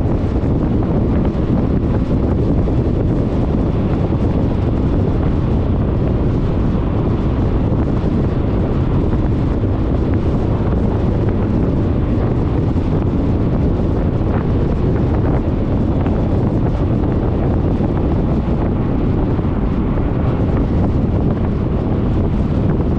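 Steady wind rumble buffeting the microphone of a scooter-mounted action camera while riding, low and even throughout.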